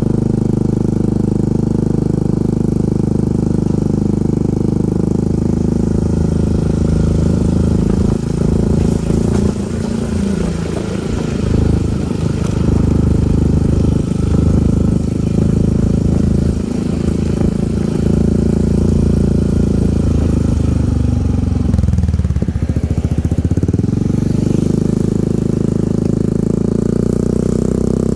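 Yamaha Grand Filano scooter engine running through an aftermarket TZM-copy exhaust. It runs steadily at first, turns uneven through the middle, and dips briefly in pitch and comes back up in the later part.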